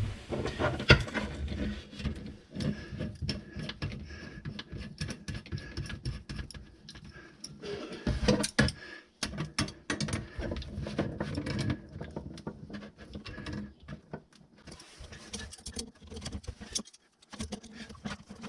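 Irregular clicks, knocks and rattles of parts and hand tools being handled at close range, with short pauses between bursts.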